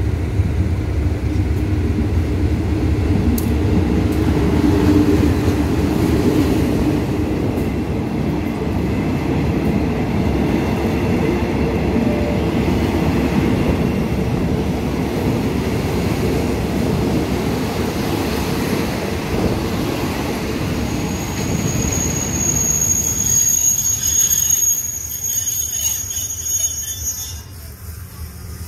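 Diesel-hauled passenger train pulling in alongside the platform, with a steady rumble from the locomotive and the carriage wheels on the rails. Near the end a high brake squeal sounds as it slows to a stop, and the rumble dies down.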